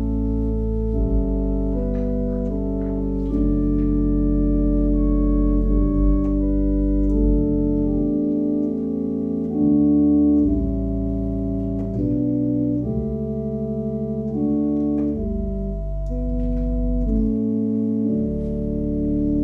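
Organ playing slow sustained chords over a deep bass line, the chords changing every second or two. The bass drops out for a couple of seconds about halfway through.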